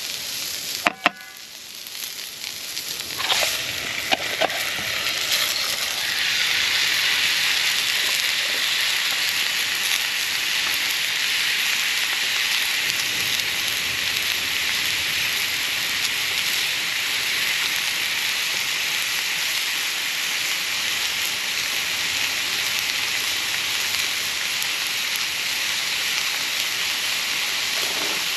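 Food sizzling in a hot pan over a fire: a few sharp clicks, then a sizzle that builds over the first few seconds and settles into a steady, loud hiss.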